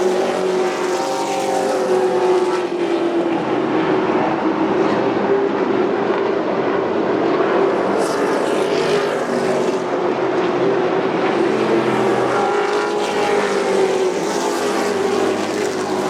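Racing trucks' engines running at speed in a race, a loud steady engine drone whose pitch rises and falls.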